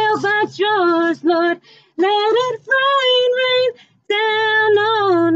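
A female voice singing a slow worship song unaccompanied, in sustained phrases with held, gliding notes and two brief breaths.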